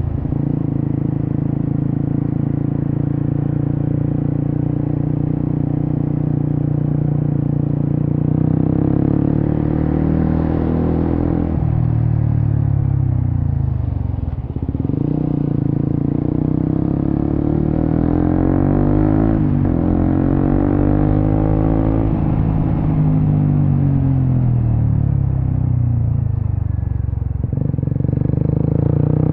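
Suzuki GSX-S150's single-cylinder four-stroke engine through a Quinze big-volume aftermarket exhaust, running steadily while riding. About ten seconds in its pitch starts to fall and rise several times as the throttle is closed and opened again.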